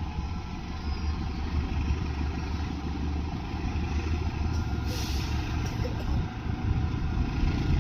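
Diesel-hauled passenger train running with a steady low rumble, with a short hiss about five seconds in.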